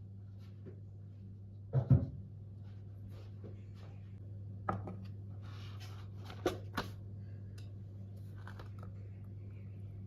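Kitchen handling noises over a steady low hum: one dull knock about two seconds in, then a few lighter clicks and faint rustling.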